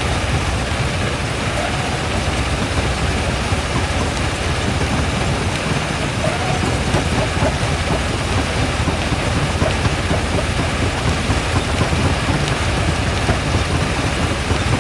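Quarry primary jaw crusher running, a loud, steady, dense rumble and clatter.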